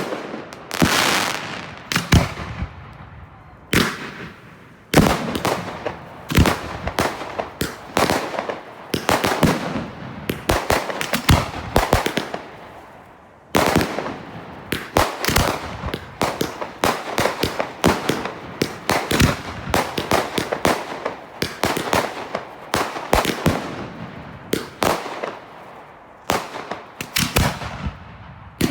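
Consumer fireworks going off in a rapid, uneven run of sharp bangs and crackling shots, several a second, with a few short lulls between volleys.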